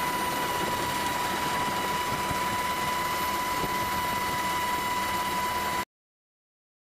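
Steady machinery noise with a constant high-pitched whine, cutting off abruptly near the end.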